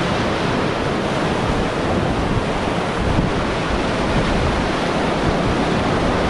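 Steady rush of whitewater river water around a raft, an even noise with no breaks.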